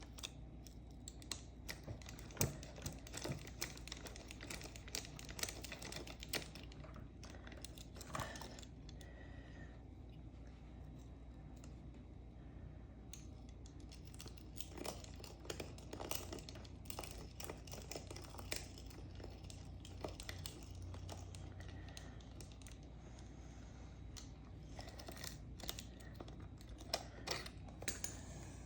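Faint, irregular scraping strokes and small clicks of a chainsaw chain being sharpened by hand, one cutter at a time, with the metal of the chain and saw ticking as it is handled.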